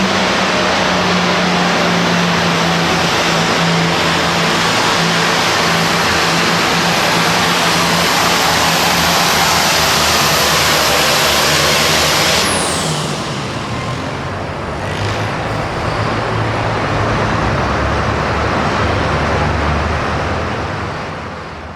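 Turbocharged diesel Super Farm pulling tractor at full throttle, loud and steady with a high whine, until about twelve seconds in, when the throttle is cut. The whine drops away and the engine falls back to a lower rumble that fades near the end.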